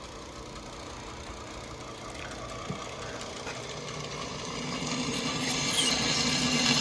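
Power drill motor running, boring holes in a plexiglass sheet; it gets steadily louder over the second half.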